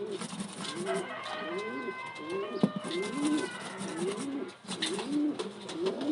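Pigeons cooing repeatedly, a steady run of low rising-and-falling coos roughly every half second or so.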